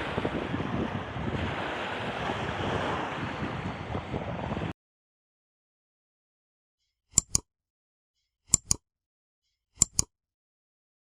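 Sea surf washing on a beach, with wind buffeting the microphone, cuts off abruptly a little under five seconds in. Then silence, broken by three pairs of short sharp clicks, each pair a little over a second after the one before.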